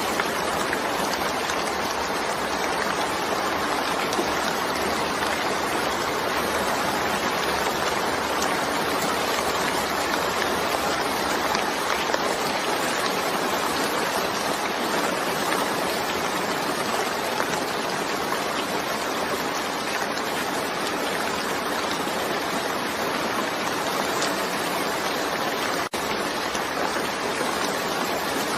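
Steady rain, an even unbroken hiss with no single drops or thunder standing out, and a split-second gap in the sound near the end.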